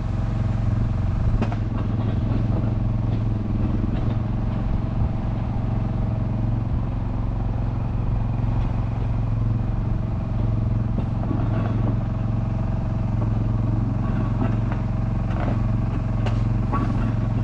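An engine running steadily, a constant low hum that holds the same pitch throughout, with a few faint ticks over it.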